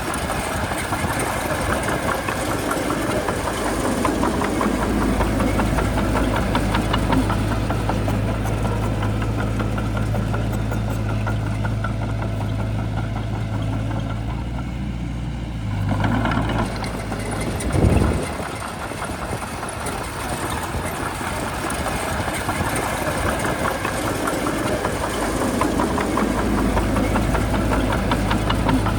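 Shantui bulldozer's diesel engine running steadily with a rattling clatter. About two-thirds of the way through, the engine tone changes briefly and there is one short, louder knock.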